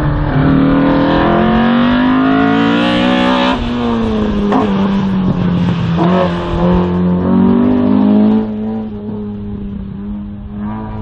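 Race car engine accelerating hard through a slalom: its pitch climbs for about three and a half seconds, drops sharply at a gear change, then rises and falls several times as the throttle goes on and off. It gets quieter after about eight and a half seconds.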